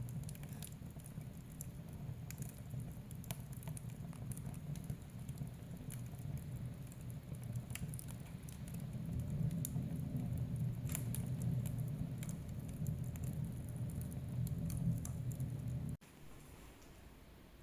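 Wood fire burning in a fireplace: irregular sharp crackles and pops over a low, steady rumble of the flames. The sound cuts off abruptly about 16 seconds in, leaving only a faint hiss.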